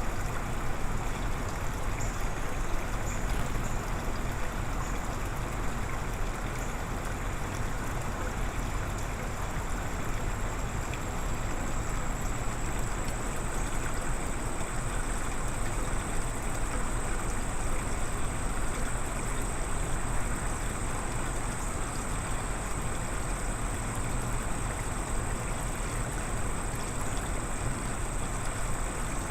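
Steady rushing background noise, with a thin, high, steady tone that comes in about ten seconds in.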